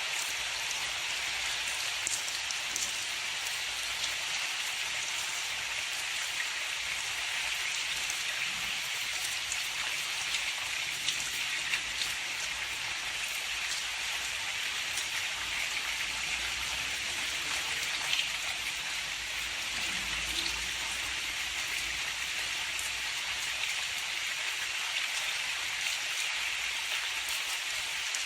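Steady rain falling, an even hiss with individual drops ticking here and there, and a faint low rumble about halfway through.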